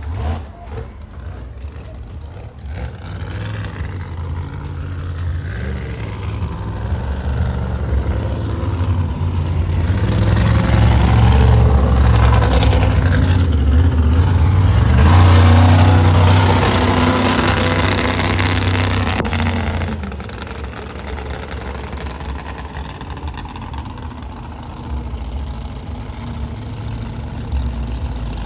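Monster truck engine revving hard, rising and falling in pitch; it grows louder to a peak about ten to nineteen seconds in, then drops back about twenty seconds in.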